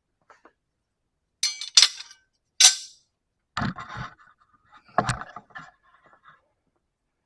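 Metal parts being handled: two bright, ringing metallic clinks, then two heavier knocks about a second and a half apart with small rattles and scrapes between them.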